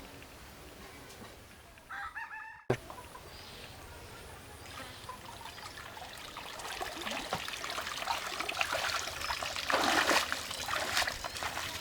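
A rooster crows briefly near the start. After a cut, a dense, noisy run of clicks and rustle builds up, loudest about ten seconds in.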